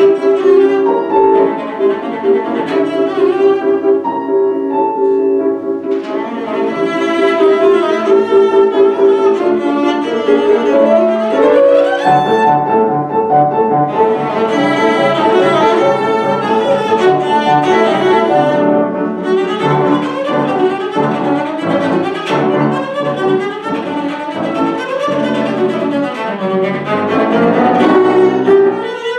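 A bowed string instrument playing a classical piece with piano accompaniment, moving between long held notes and quicker melodic runs.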